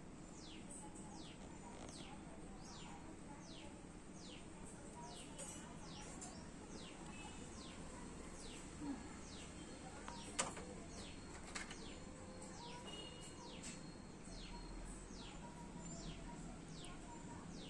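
Birds chirping: a run of short, high, falling notes, about two a second, with a couple of faint clicks in the middle.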